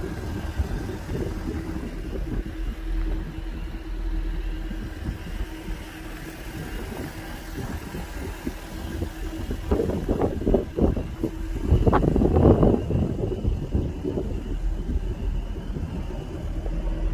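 Jaguar car engine idling with a steady low hum, with louder, rougher rumbling twice, about ten and twelve seconds in.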